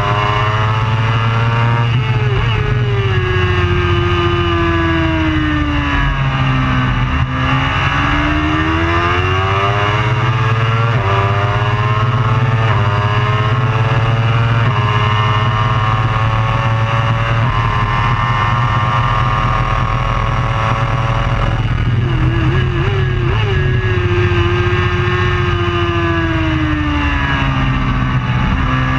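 Racing superbike engine at race pace. Its pitch falls as it slows for a corner, then climbs again with four quick drops as it shifts up through the gears. It falls again for the next corner near the end.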